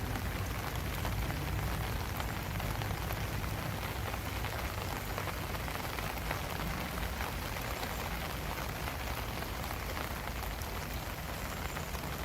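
Steady rain falling, a dense patter of individual drops over a low rumble.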